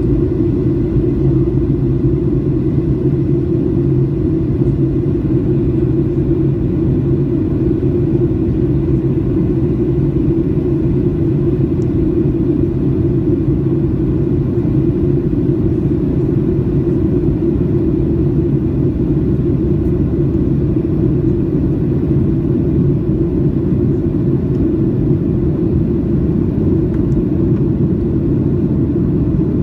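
Steady cabin rumble of a Boeing 737-800 from inside the passenger cabin: the CFM56 engines and the airframe give a loud, even low drone with a few steady low hums, unchanging throughout.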